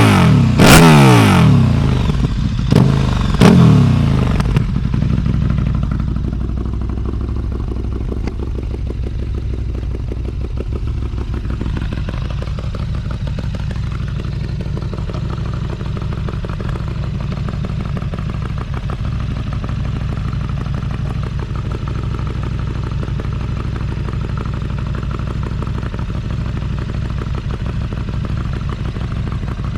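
2019 KTM 1290 Super Duke R's V-twin engine through an Austin Racing V3 200 mm exhaust, revved twice in the first few seconds, the pitch falling back after each rev, then settling to a steady idle from about six seconds in.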